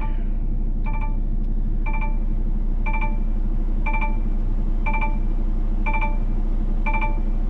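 Electronic warning chime in a vehicle cab repeating evenly about once a second, eight chimes in all, over a steady low hum.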